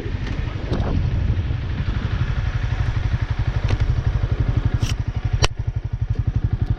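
Motorcycle engine idling with an even, pulsing beat as wind noise dies away over the first couple of seconds. Two sharp clicks sound about five seconds in.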